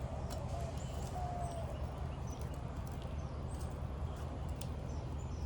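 Faint clicks and scrapes of asphalt shingles being worked loose by hand and tool on a roof, over a steady low rumble. A short, slightly falling tone is heard near the start.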